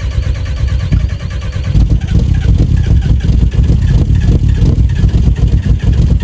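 VW Jetta Mk4 TDI four-cylinder turbodiesel being cold-started: the starter cranks for about two seconds, then the engine catches and runs loud and uneven.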